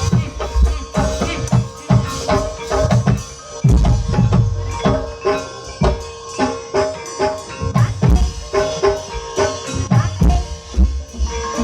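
Javanese gamelan music accompanying a kuda kepang (ebeg) horse dance: rapid hand-drum strokes over struck metal keyed instruments, with a steady ringing tone held underneath.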